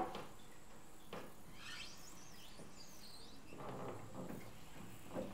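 Faint bird chirps over a quiet outdoor background, and a wooden gate being pushed open with a short scrape about three and a half seconds in.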